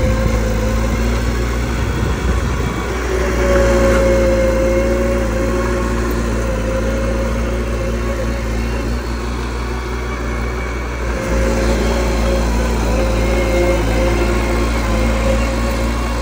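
Bulldozer engine running steadily under work, its note swelling louder about three seconds in and again near eleven seconds.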